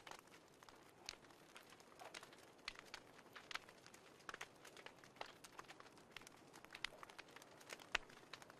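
Wood fire crackling softly: irregular sharp pops and snaps, several a second, over a faint hiss.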